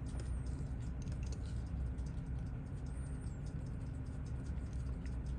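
Faint, scattered light clicks of small metal parts and tools being handled on a watchmaker's bench, over a steady low hum.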